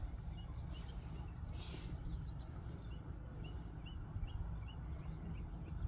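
A small bird chirping: a string of short, high chirps about two a second, over a steady low rumble, with a brief rustle about two seconds in.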